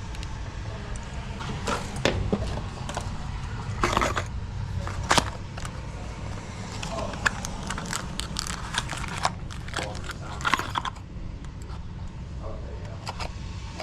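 Irregular clicks, taps and knocks of lock hardware and hand tools being handled while a deadbolt is fitted, over a steady low hum.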